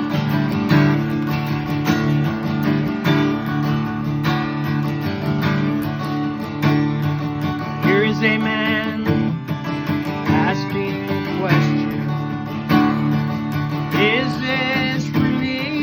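Acoustic guitar strummed and picked in an instrumental passage between sung lines, with brief wavering high notes about halfway through and again near the end.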